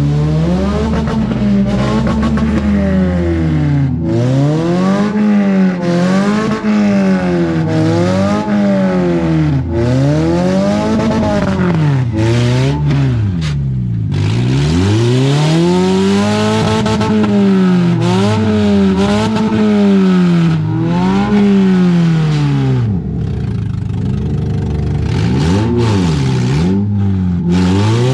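Demolition derby cars' engines revving hard, their pitch climbing and falling again about every second or two as the cars rev up, ram each other and back off. Occasional clatter and scraping of crumpled bodywork comes through over the engines.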